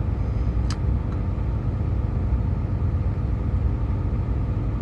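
Steady low rumble inside a truck's cab, with a single short click about a second in.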